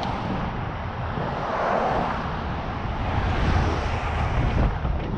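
Wind buffeting the microphone: a steady rushing noise with a fluttering low rumble that swells and fades.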